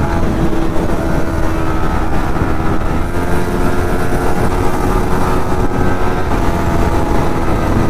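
Motorcycle engine running at a steady, unchanging pitch while being ridden.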